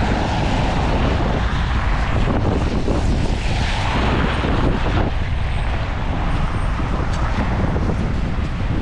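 Strong wind buffeting the microphone in a steady, loud rumbling rush, with road traffic from passing cars mixed in.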